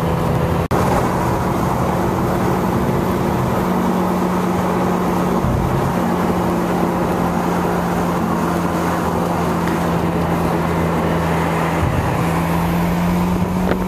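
A car's engine hums steadily under road and wind noise, heard from inside the moving car. The hum breaks briefly about five and a half seconds in and again about twelve seconds in, then carries on at a slightly different pitch.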